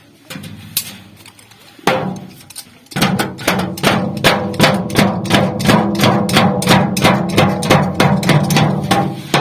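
Rapid, even hammer blows on a sheet-metal pot, about five strikes a second, with the metal ringing between blows. A few separate blows come first, and the fast hammering starts about three seconds in.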